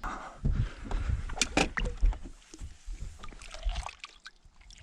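Water splashing and sloshing at the side of a fishing boat, with irregular knocks and clicks, as a just-caught musky is handled at boatside; it quietens toward the end.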